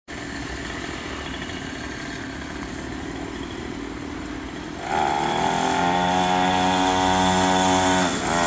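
Small 50cc mini motocross bike engine running, rougher and quieter at first, then louder with a clear buzzing note from about five seconds in as the throttle opens and the revs climb and hold, with a brief dip in revs near the end.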